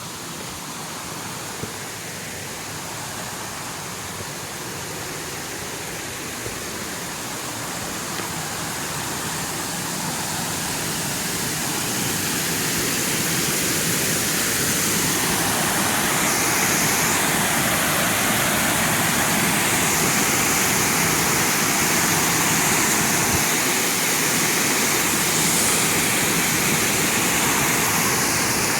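Waterfall rushing steadily, growing louder over the first half and then holding even.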